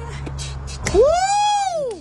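A person's voice giving a long "woo" that rises and then falls in pitch, starting about a second in. It follows a few light clicks.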